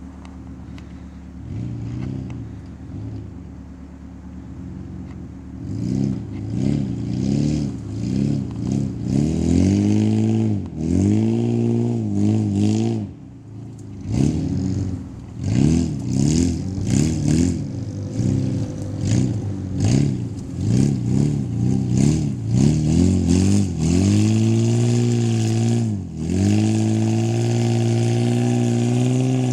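1995 Toyota T100 pickup's engine idling, then revved over and over in quick rises and falls for about twenty seconds, then held at a steady higher speed near the end.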